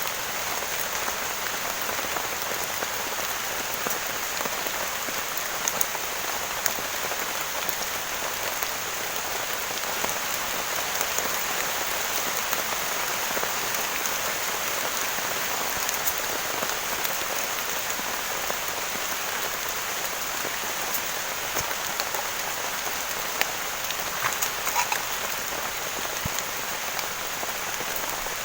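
Heavy rain falling steadily, an even hiss of drops with a few sharper, louder drop taps scattered through it.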